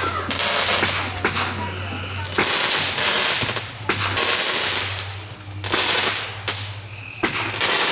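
Aerial fireworks going off in a fast barrage: a string of sharp bangs about a second apart, with loud crackling and sizzling between them.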